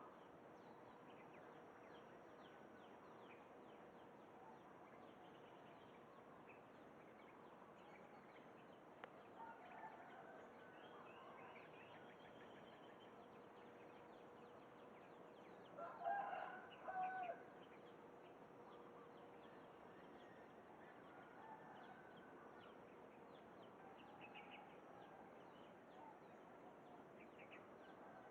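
Faint outdoor bird calls over a low hiss: scattered small chirps, and one louder, broken call of about a second and a half just after the middle.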